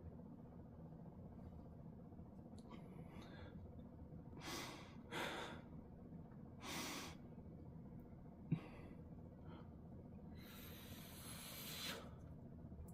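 A person breathing faintly, a few short breaths and then a longer exhale near the end, with one small click in the middle.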